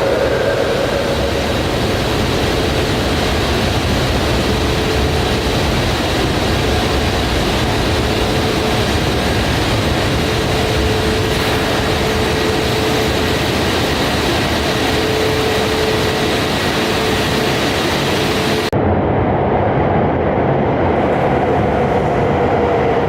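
A Shinkansen bullet train running at the platform, a loud, steady rumble and rush with a faint whine. About 19 s in the sound changes abruptly and the high hiss drops away.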